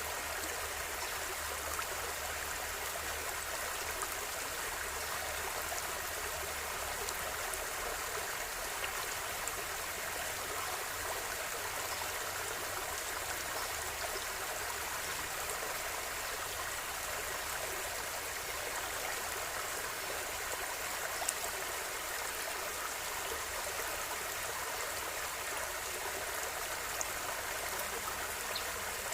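A river or stream flowing steadily, a continuous even rush of water with small splashes and ticks here and there.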